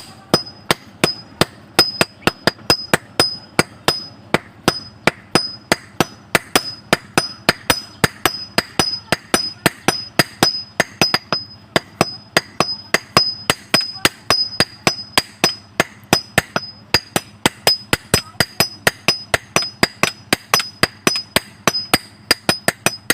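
Blacksmith's hammer striking hot metal on an anvil in a steady rhythm, about three to four blows a second, each blow with a bright, high ring.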